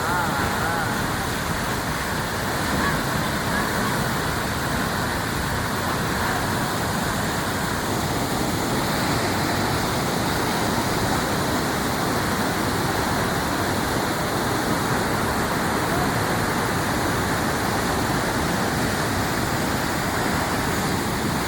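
A river in flood, swollen by heavy monsoon rain, with its water rushing in a steady, unbroken noise.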